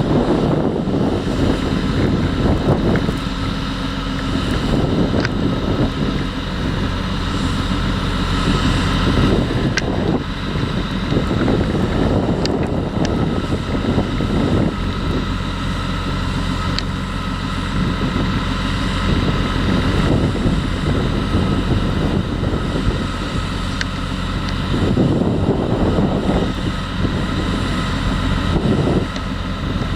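Heavy farm machinery running steadily at a potato harvest, with harvester and tractor engines droning, and wind buffeting the microphone in irregular gusts.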